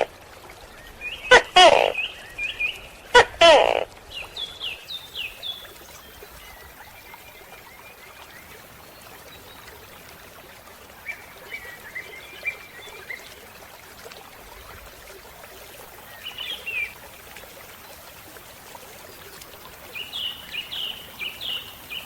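Animal calls: two loud, pitched calls in the first few seconds, then several bursts of short, high chirps repeated in quick runs, like birds calling.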